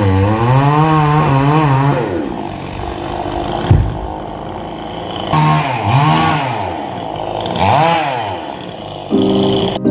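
Chainsaw engine revving up and down over and over as it cuts, its speed dropping about two seconds in, with a single thud near the middle.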